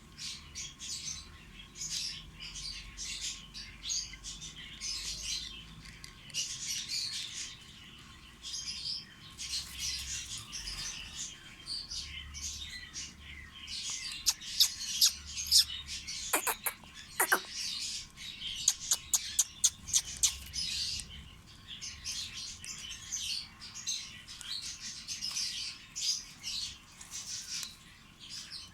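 Small pet parrots chirping and chattering continuously in quick, high-pitched runs. Partway through comes a burst of sharp, loud short calls.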